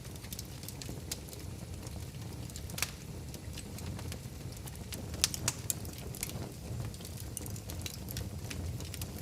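Wood fire crackling in a fireplace: scattered sharp pops and snaps over a steady low rumble, with louder pops about three seconds in and again around five and a half seconds in.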